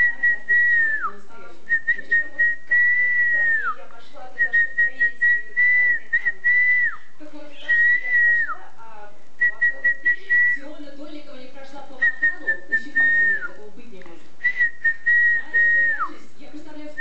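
A person whistling the same short phrase over and over on one high note: a few quick pips, then a held note that slides down at the end. There are about seven repeats, roughly every two seconds.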